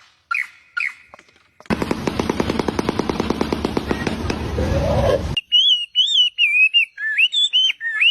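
Bird calls: two short chirps, then a loud, fast rattle lasting about three and a half seconds, then a clear whistled, warbling song that rises and falls.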